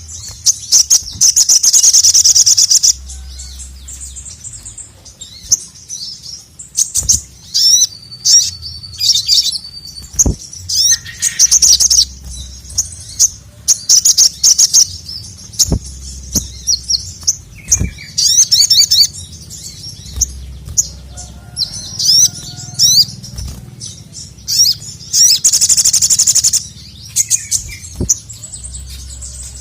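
A sogon (sogok ontong) sunbird singing in repeated bursts of rapid, high-pitched chattering. Two of the phrases are long, loud trills of about two seconds, one near the start and one near the end.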